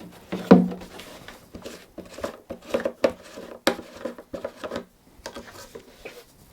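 Small hard parts being handled: an irregular run of clicks, taps and light clinks, one of them ringing briefly about half a second in.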